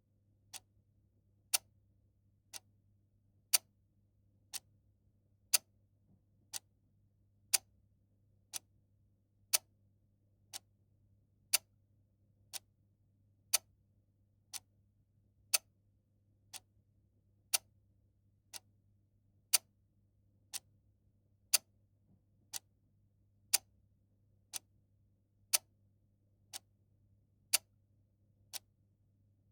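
Mechanical clock ticking steadily, about one sharp tick a second, some ticks louder than others, over a faint low hum.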